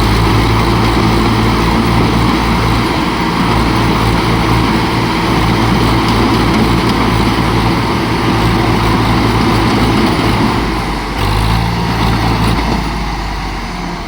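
Swaraj 735 tractor's diesel engine running steadily, with a brief dip and change in its note about eleven seconds in, getting quieter near the end.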